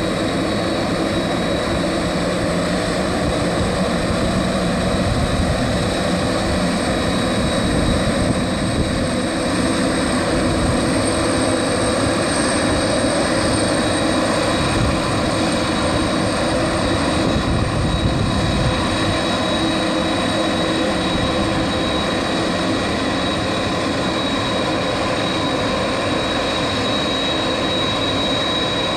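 Boeing 767 airliner's turbines running steadily close by: a continuous jet rush with a steady high whine over it.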